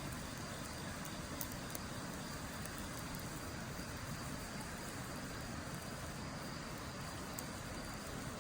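Wood fire burning in a Snow Peak steel fire pit, with a few sharp crackles and pops over a steady rushing background.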